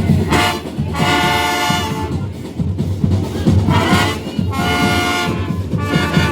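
Marching band playing: brass sounding long held chords in phrases with short breaks between them, over a steady beat of marching drums.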